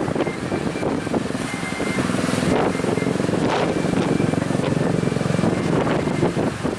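Small motorboat's engine running steadily, its fast firing beat heard through wind on the microphone.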